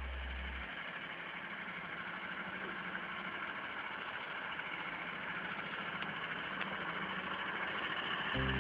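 Heavy truck engine running steadily with a dense, even drone that grows slightly louder; a beat of music begins near the end.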